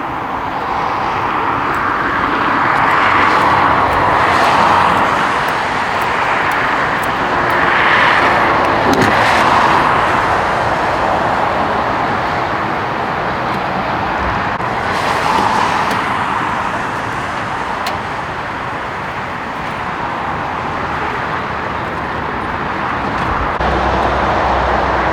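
Road traffic going by, a steady rush of tyre and engine noise that swells and fades as vehicles pass one after another, several times.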